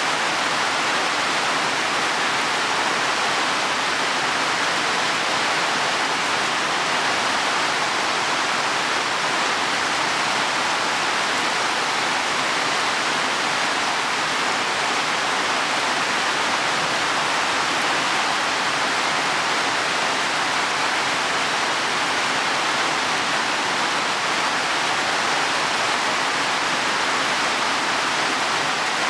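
Heavy rain falling steadily on leaves and soil, a dense, even hiss.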